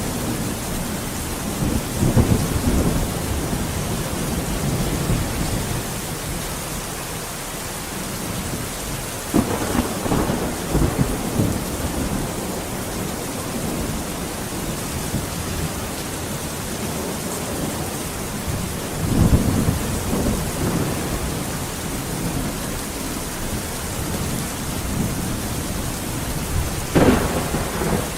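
Steady heavy rain falling, with rolls of thunder rumbling through it four times, the last a sharp crack near the end.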